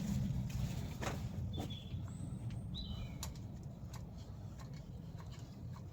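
A bird chirps briefly two or three times in the middle, over a steady low rumble and a few light clicks from handling.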